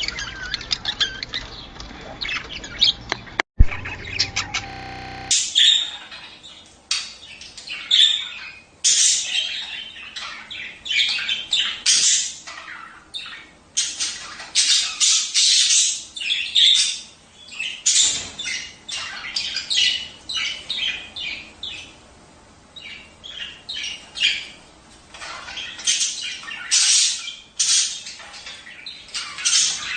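A flock of budgerigars chattering and squawking in quick, repeated bursts of shrill calls with short pauses between them. There is one sharp click about three and a half seconds in.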